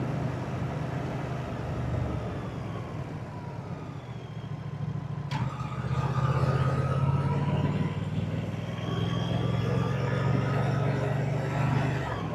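Moto Guzzi motorcycle V-twin engine and exhaust while riding. The note slides down and quietens around three to four seconds in, there is a sharp click a little after five seconds, and then it pulls louder again with the pitch climbing.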